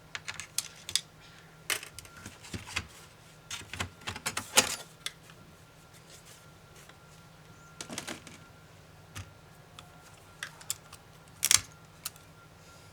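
Irregular sharp clicks and taps of small laptop parts being handled during disassembly, many in the first few seconds, then a few scattered ones with the loudest near the end.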